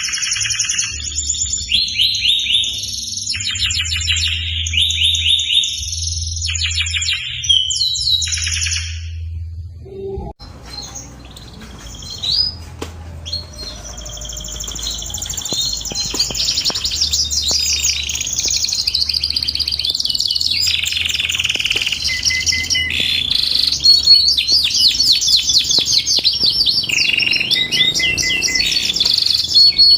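Domestic canary singing a long, varied song of rapid high trills and rolls. The song pauses briefly about ten seconds in, then resumes and runs on, growing louder and denser near the end, over a faint low hum.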